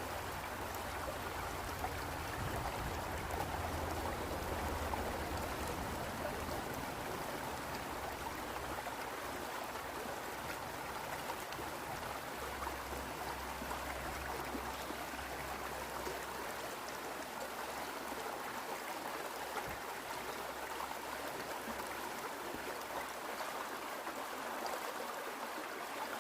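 Small stream running steadily over rocks, an even rushing and burbling of water.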